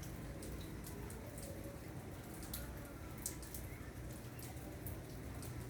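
Rain falling, with scattered drops tapping at irregular moments over a steady low rumble.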